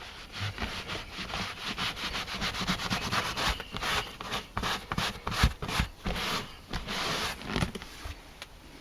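A cloth soaked in methylated spirits being rubbed back and forth over a leather chair's surface in quick, repeated strokes, dissolving and washing off the old sealer. The rubbing stops near the end.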